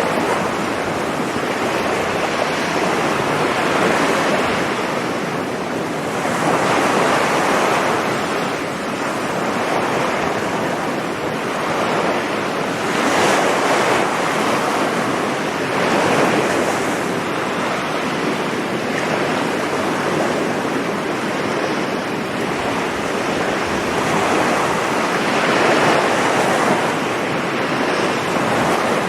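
Sea waves breaking on a beach: continuous surf that swells and eases every few seconds.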